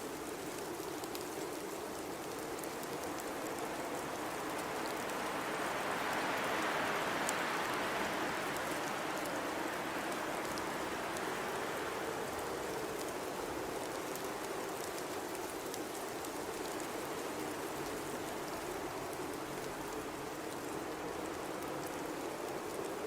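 Blizzard wind blowing steadily, with one gust swelling about six seconds in and slowly easing off. Faint scattered ticks ride over it.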